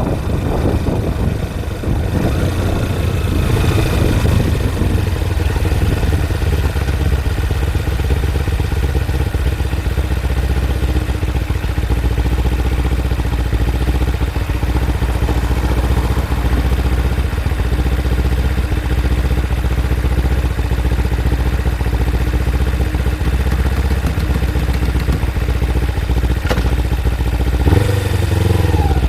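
Kawasaki Ninja 250's parallel-twin engine running steadily while riding, with wind noise on the microphone in the first few seconds. About a second before the end its pitch rises as the engine revs up.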